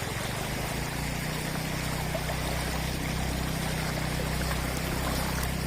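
Steady rush of flowing water, with a steady low hum underneath.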